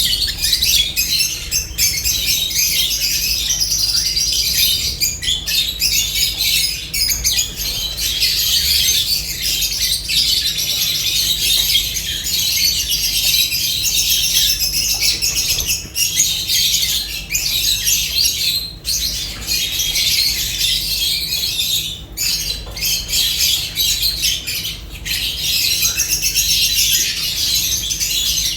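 A flock of lovebirds chattering and squawking without pause, a dense high-pitched din with only brief lulls.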